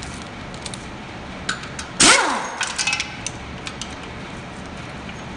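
Metal tools and parts handled on an engine: a loud clang with a ringing scrape that falls in pitch about two seconds in, then a run of light metallic clicks and taps.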